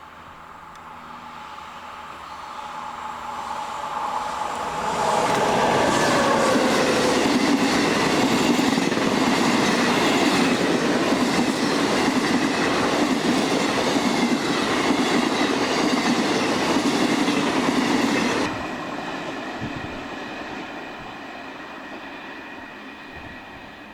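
A train approaches and passes close by, its wheels clattering over the rail joints. The sound builds over the first few seconds, stays loud for about thirteen seconds, then drops suddenly and fades away.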